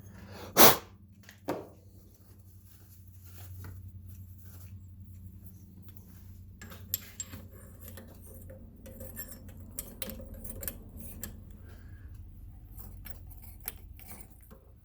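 Small metal parts of a milling machine drawbar being handled: one sharp metal clank a little under a second in, a lighter one soon after, then scattered light clicks and taps. A low steady hum runs underneath.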